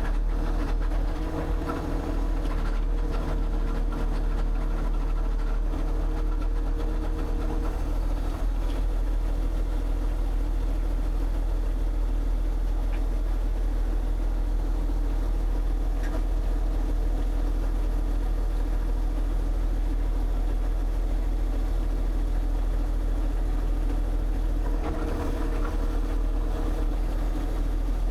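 An engine running steadily, with a few faint knocks.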